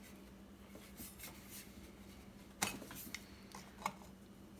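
A few light metallic clicks and clinks as the parts of a hand grain grinder are handled and fitted, the sharpest about two and a half seconds in, over a faint steady hum.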